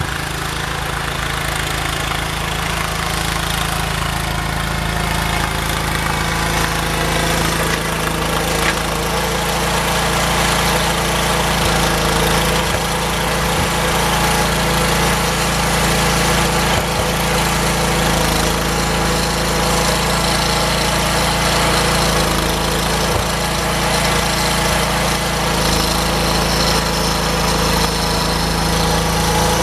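Engine of a snow-plowing vehicle running steadily, getting slightly louder over the stretch.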